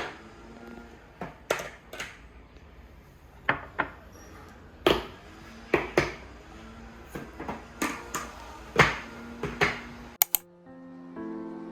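Irregular sharp clicks and knocks of small hard objects being handled, about one or two a second, over a low steady hum of room tone.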